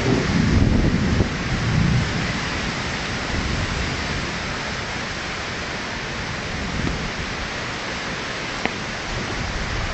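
Rain falling steadily in a thunderstorm, with a rumble of thunder in the first two seconds that dies away. A single sharp click sounds near the end.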